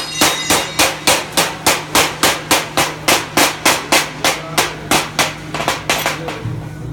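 Hammer rapidly chipping slag off a freshly laid 6013 stick-weld bead on steel, about four sharp metallic strikes a second, going lighter near the end, over a steady low hum.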